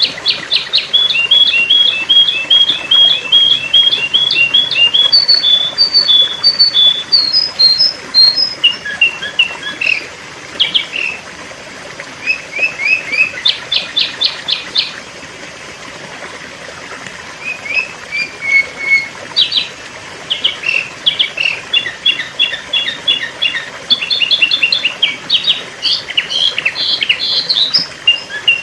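Sooty-headed bulbul (kutilang) calling: quick runs of short, high, clear chirps and trills, broken by a quieter gap of a couple of seconds about halfway through.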